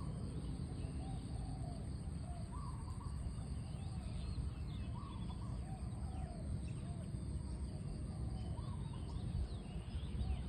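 Birds calling outdoors: short notes repeating every second or two, with thin higher chirps scattered between them. Under them runs a steady low rumble of background noise and a constant high whine.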